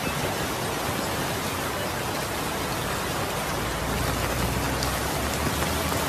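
Heavy rain pouring down, with floodwater rushing through the street: a steady, dense hiss, with a deeper rumble filling in from about four seconds in.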